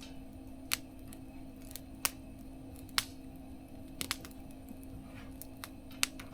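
Firewood crackling in a small mesh-walled fire stove: single sharp pops about once a second, over a faint steady hum.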